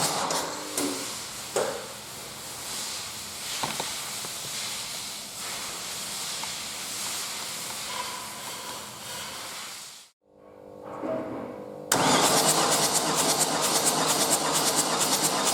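Opel 1.3 CDTI Z13DTJ four-cylinder diesel engine on a test stand with a fast, even mechanical clatter. The clatter stops just after the start, leaving a quieter stretch with a few knocks and clicks. About twelve seconds in the engine sound comes back abruptly and loud, with the same rapid clatter.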